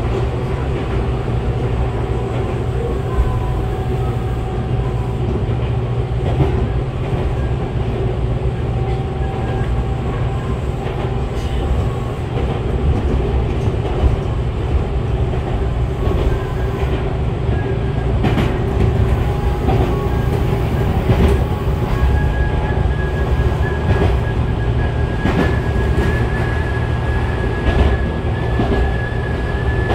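Interior running sound of a Tobu 6050 series electric train under way between stations: a steady rumble of wheels and running gear, with a sharp wheel click over a rail joint now and then. About two-thirds of the way through, a thin high tone comes in and rises slightly.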